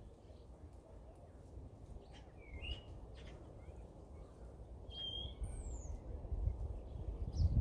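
Small garden birds chirping in short, scattered calls, with one brief falling high whistle about halfway through. Under them runs a low rumble that grows louder near the end.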